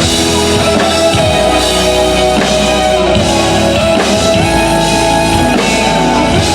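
Live pop-rock band music over the stage's sound system, with drum kit, guitar and long held notes, and no singing heard.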